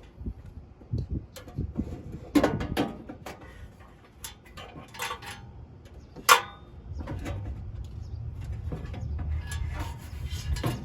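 Scattered clicks and knocks of metal grill parts being handled, with one sharp knock about six seconds in, then a low steady rumble from about seven seconds on.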